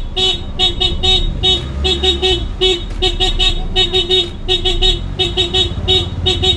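An electronic beeper sounding short, high beeps in quick groups of two to four, over the low rumble of a vehicle.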